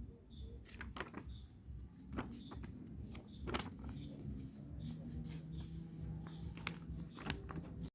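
Irregular soft taps and scratches, a few a second, over a low background rumble, with a faint steady hum in the middle stretch.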